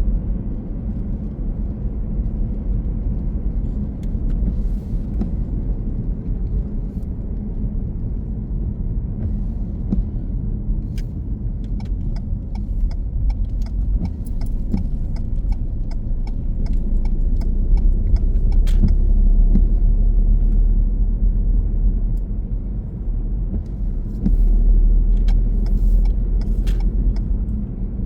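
Car driving, a steady low road and engine rumble that swells louder twice, with scattered light clicks and rattles.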